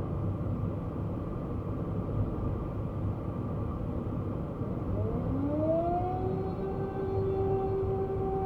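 A siren winds up about five seconds in, rising in pitch and then holding one steady tone. Under it runs the steady rumble of a kei car's engine and road noise.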